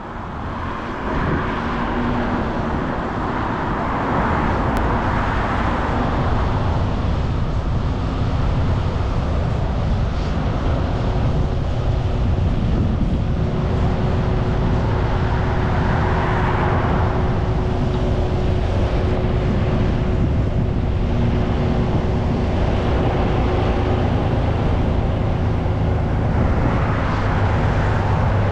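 Ride noise on a GoPro action camera's microphone while cycling in traffic: a steady low rumble of wind and road, with passing cars swelling and fading about four, sixteen and twenty-seven seconds in.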